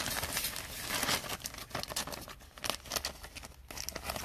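Plastic trading-card pack wrapper crinkling and rustling as it is torn open. The rustle is dense for about the first second and a half, then breaks into scattered small clicks and rustles as the cards are handled.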